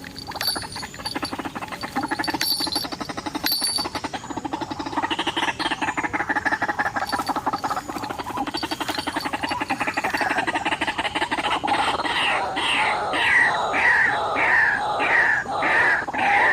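White-breasted waterhen calling: a rapid pulsed chatter that builds into a series of loud repeated notes, each dropping in pitch, about two a second.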